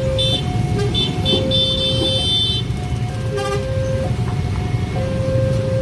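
Railway level-crossing warning alarm sounding a two-tone alternating signal, a lower and a higher tone taking turns about once a second, over a steady low rumble. Brief high-pitched squealing tones sound over it during the first half.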